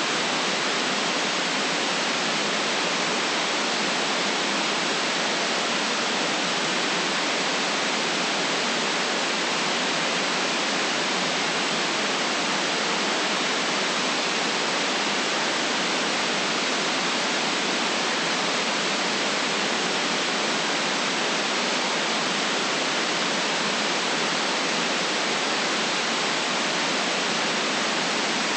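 Steady, even hiss of generated white noise with little bass and no changes or events.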